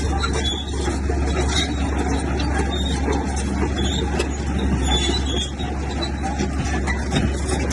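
Heavy diesel earth-moving machinery running steadily under load, a continuous low engine rumble with mechanical clatter above it.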